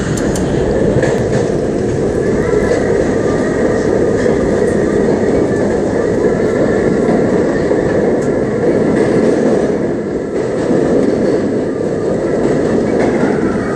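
An R32 New York subway car running, heard from inside the lead car: a steady rumble of wheels on rail with a faint whine over it.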